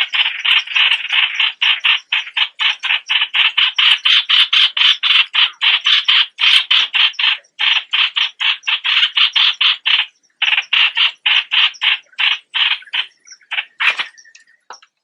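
A bird, the one known in Thai as nok plot, calling in a fast run of harsh repeated notes, about five a second. The run breaks briefly about ten seconds in, then picks up again and thins out near the end.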